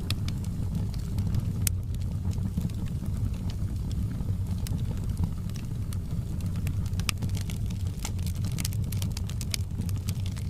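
Wood fire in a fireplace crackling: sharp pops and snaps over a steady low rumble. The pops come thicker in the second half.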